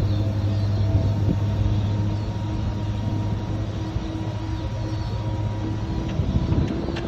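Ford bucket truck's engine running at fast idle with the PTO engaged, driving the hydraulics while the boom is operated: a steady low drone.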